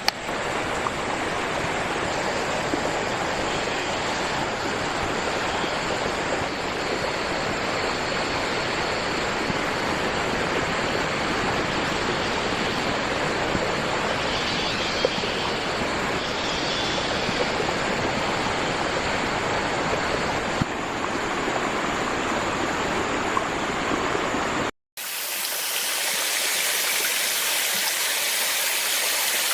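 Steady rushing of flowing water. It cuts out for a moment about 25 seconds in and comes back thinner, with less low rumble.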